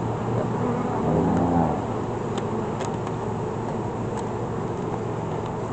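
Steady hum of honeybees buzzing around an open hive, with a few light clicks from frames being handled.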